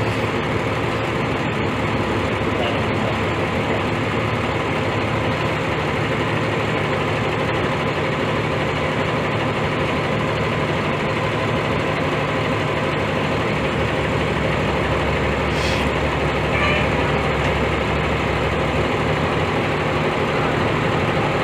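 A vehicle engine idling steadily, a deep, even hum that swells a little in the low end about two-thirds of the way through.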